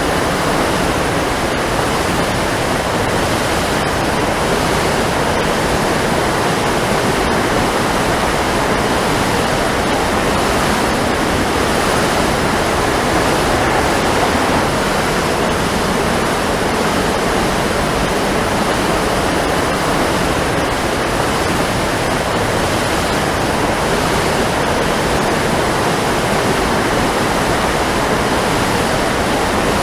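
Waterfall: water falling and splashing in a loud, steady rush that does not change.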